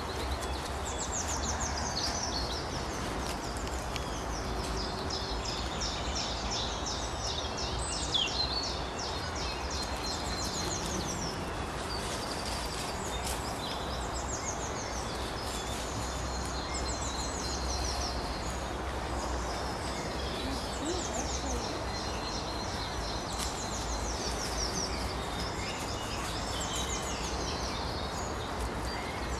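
Songbirds singing: short phrases of high, quickly falling notes repeated every second or two, with one louder falling call about eight seconds in, over a steady low rumble.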